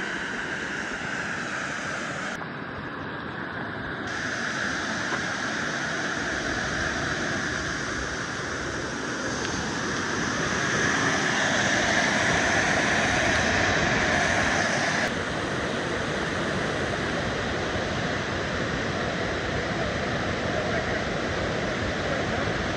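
Steady rush of a waterfall's falling water, which swells louder about halfway through and drops back suddenly around two-thirds of the way in.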